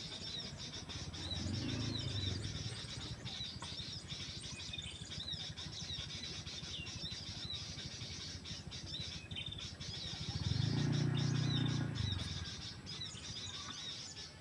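Small birds chirping, short high calls repeated many times over. A low hum swells up and fades twice in the background, once near the start and once more loudly later.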